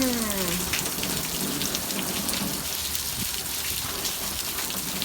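Steady downpour of rain splattering on surfaces, with individual drops ticking through it.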